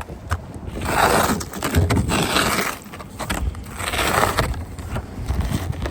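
A broom brushing snow off a car, in about three long swishing strokes with a few scraping clicks.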